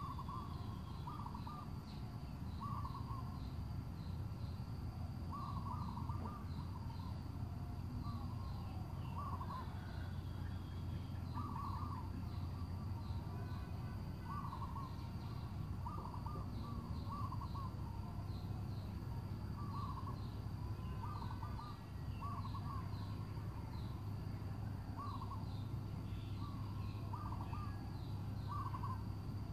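Birds calling: short calls repeat every second or two, over a steady low hum.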